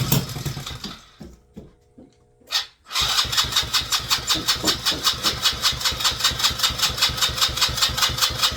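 Small engine being cranked over by its starter, about five even compression beats a second, without catching. The cranking stops briefly about a second in, with a few clicks, and starts again at about three seconds.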